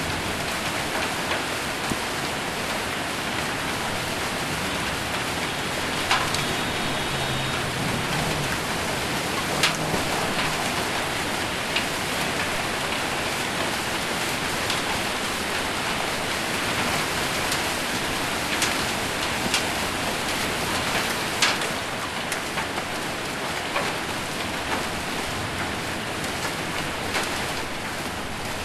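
Heavy rain with hail on a metal roof: a steady hiss of rain, with scattered sharp knocks from single hailstones striking the roof.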